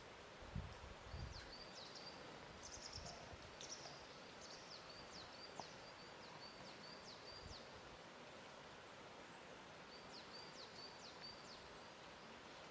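Faint lake-shore ambience: a steady soft hiss, with small birds giving quick, high, repeated chirps in two short runs, a few seconds in and again near the end. A few soft low thuds come in the first seconds.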